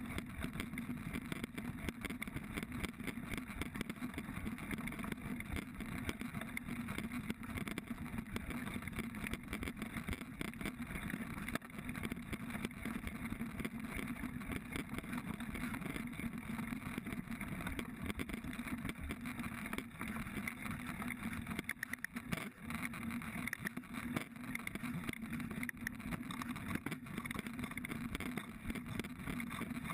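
Mountain bike ridden along a rough cross-country trail, heard through an action camera: a constant rumble of wind and tyres on dirt, with frequent rattles and knocks from the bike.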